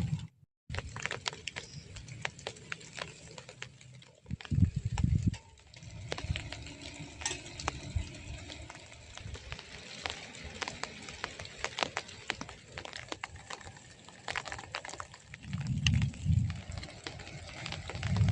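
Rain falling, heard as dense, irregular crackling drops, with two low thumps, one about four seconds in and one near the end.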